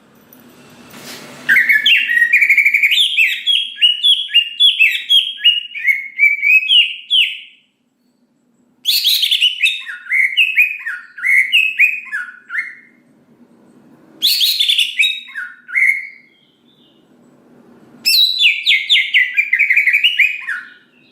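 Greater green leafbird (cucak ijo) singing in full voice: four bouts of fast, varied chirping and warbling notes separated by short pauses.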